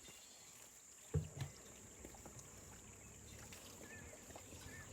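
Faint steady water noise, like trickling or splashing, with one dull thump about a second in.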